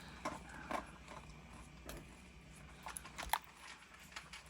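Scattered faint clicks and crackles from flexing a silicone mold and popping cured resin pieces out of it, about a dozen spread irregularly with the sharpest ones around three seconds in.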